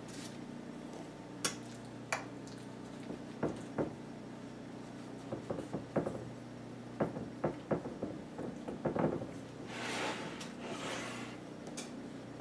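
Scattered light knocks and clicks of kitchen handling as a casserole dish and puff pastry top crust are worked on a counter, with a soft rustle near the end.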